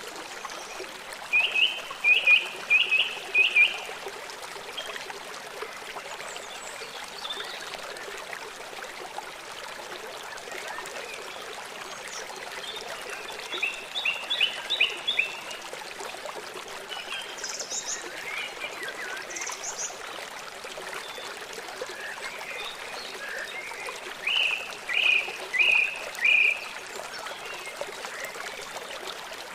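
Birdsong over a steady running stream: three times, a bird sings a quick phrase of four or five short, bright notes, and a couple of higher chirps come between them.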